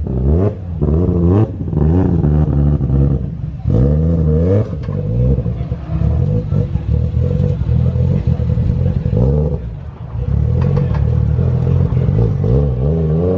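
Car engine revving hard several times, its pitch climbing and dropping back each time, with the engine running steadily in between.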